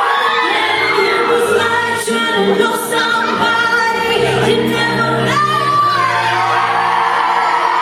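Female vocal group singing a pop song in close harmony, several voices at once, over instrumental backing, with a low bass line coming in about halfway through.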